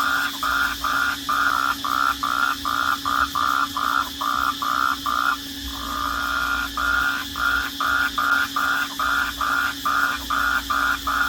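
Nighttime chorus of calling animals: a loud call repeats about three times a second, breaks off briefly a little past halfway, then resumes. A steady high trill and a low hum run beneath it.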